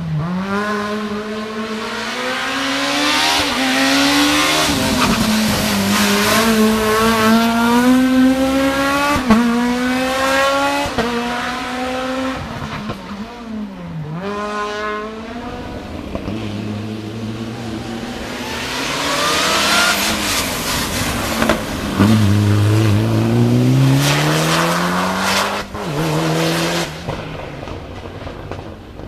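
Race car engines at full throttle. The engine note climbs in steps through repeated upshifts, each shift a quick drop in pitch. About halfway it falls away and picks up again, then another run of rising upshifts comes near the end.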